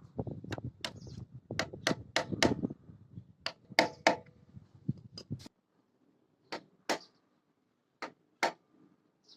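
Sharp knocks and taps of hand tools working on an engine during an oil seal change. They come thick and fast for the first five seconds or so, then thin out to a few single taps.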